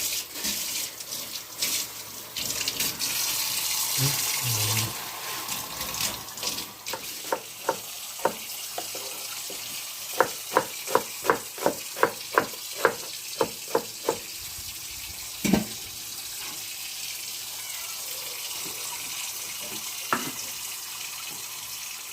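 Water running from a tap into a sink for the first few seconds, then a run of evenly spaced knocks, about three a second, lasting some seven seconds, with a couple of single knocks later.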